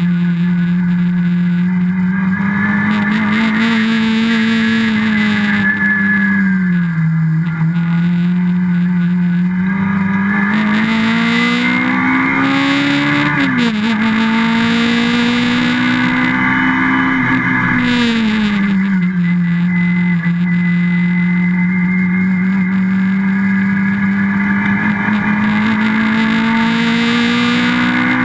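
Sunbeam Stiletto race car's rear-mounted four-cylinder engine under racing load, heard from inside the cabin. The revs climb in long pulls and fall back at lifts and braking, with a quick drop about halfway through at a gear change.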